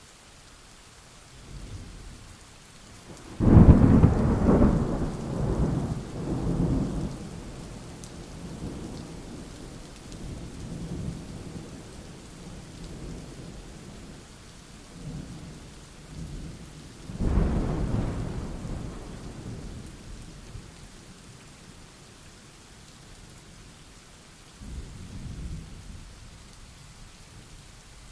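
Steady rain falling through a thunderstorm, with a sharp thunderclap about three seconds in that rolls and fades over several seconds, a second roll of thunder past the middle, and a fainter rumble near the end.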